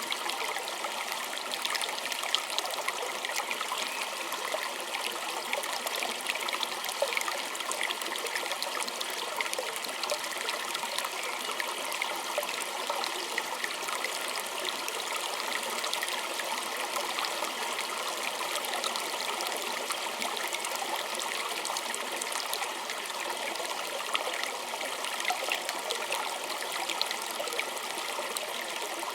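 Small stream flowing and trickling steadily, with fine splashing and bubbling and no pauses.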